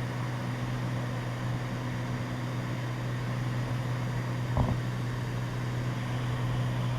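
Steady drone of a Cessna 206 Stationair's piston engine and propeller in cruise, heard inside the cabin, with a constant low hum. A brief short sound about halfway through.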